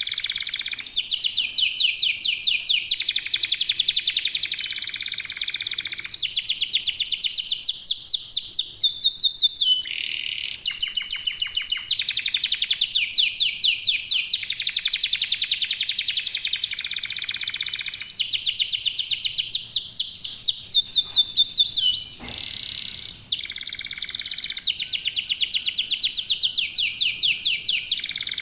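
Several domestic canaries singing together in long, fast trills and rolls, phrase after phrase with only brief pauses. This is the continuous singing of birds in full song.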